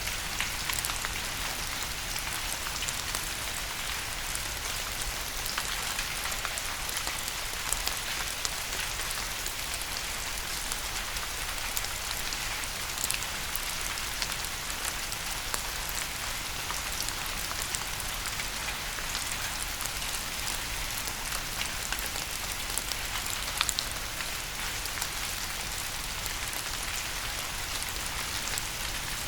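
Steady rain falling, an even hiss with many scattered individual drops ticking through it.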